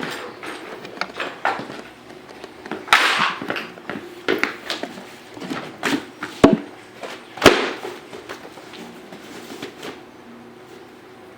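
Irregular knocks and clatter of hard objects being handled and moved about, with a short rustle about three seconds in and two sharper knocks about six and a half and seven and a half seconds in.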